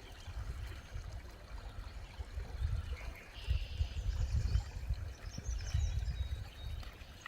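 Water trickling and pouring, with an irregular low rumble of wind on the microphone.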